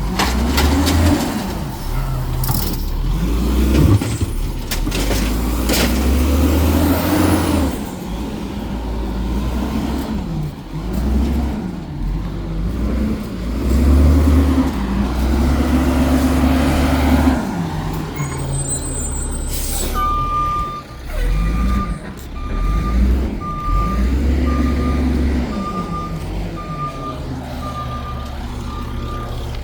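Garbage truck's diesel engine revving up and down again and again to drive the hydraulic packer compacting trash. About two-thirds of the way through comes a sharp air-brake hiss, then the reversing alarm starts beeping about once a second.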